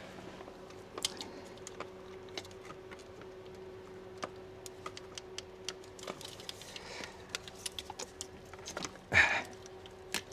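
Irregular light metallic clicks and taps of hand tools and parts being worked loose in a car's engine bay, with one louder short burst of noise about nine seconds in.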